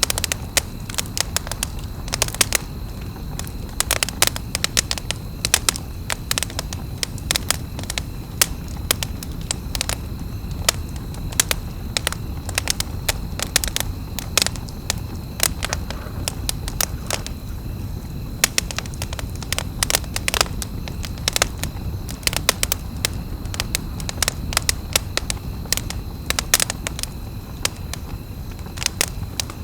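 Wood campfire crackling: dense, irregular pops and snaps over a low, steady rush of burning fire.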